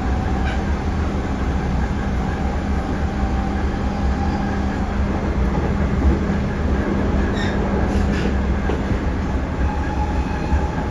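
JR Central 311 series electric train running at speed, heard from inside the car: a steady rumble of wheels on rail with a continuous hum, and a few clicks over rail joints about seven to eight seconds in.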